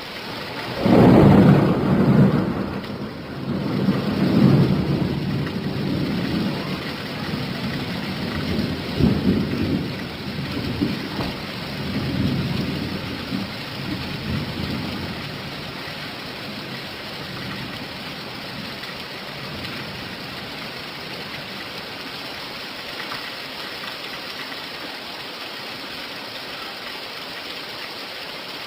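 Steady rain with a long roll of thunder that breaks about a second in, rumbles in several surges and dies away over some fifteen seconds, leaving only the even hiss of rain.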